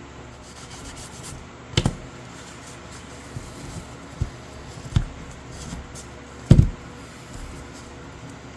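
Hand work: rubbing and handling, with a few sharp knocks and taps, the loudest a little past halfway.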